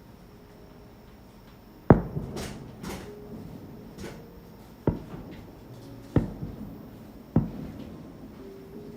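Fireworks going off: four sharp booms, each with an echoing tail. The loudest comes about two seconds in, and there are fainter crackles and hisses between the first two booms.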